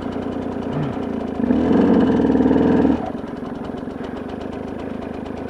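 Motorcycle engine idling steadily, with the engine note louder for about a second and a half near the middle before settling back to idle.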